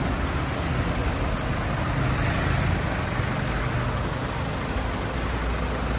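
Flatbed tow truck's engine running steadily: an even low rumble, with street traffic noise around it.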